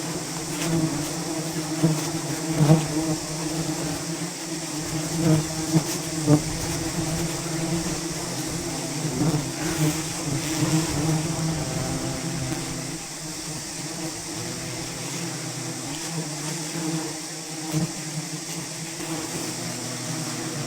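A swarm of wild honeybees buzzing in a steady drone, with a few short knocks in the first several seconds.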